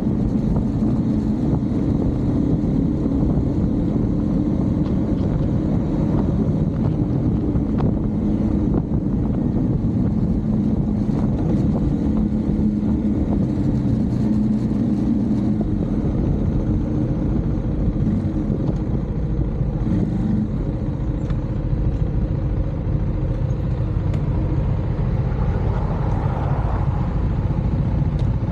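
Husqvarna Svartpilen 401 single-cylinder engine running steadily under way, with the engine note easing off about two-thirds of the way through.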